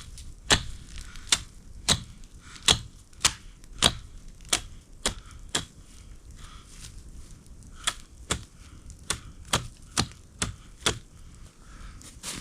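Repeated sharp knocks of a tool striking a wooden pole, about two a second, loud at first and softer later, as a spit is made ready to hang a cooking pot over the campfire.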